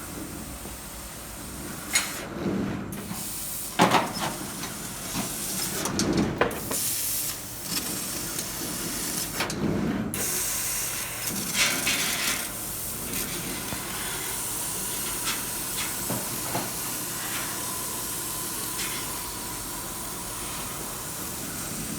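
F1530 800 W fiber laser cutting machine running, with its assist gas hissing steadily at the cutting head. The hiss cuts out briefly about three times in the first half, with a few sharp knocks along the way.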